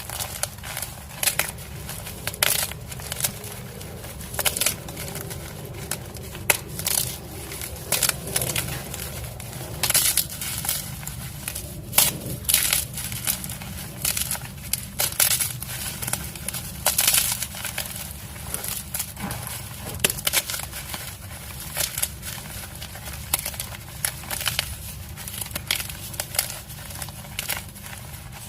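Dyed gym chalk blocks being crushed: a dense, irregular run of crisp crunches and crackles as the blocks crumble to powder.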